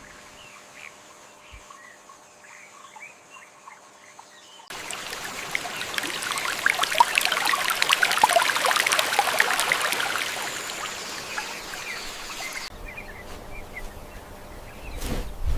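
Rainforest ambience with faint short bird chirps. About five seconds in, a dense crackling patter cuts in abruptly and runs for about eight seconds before cutting back to the quieter chirping.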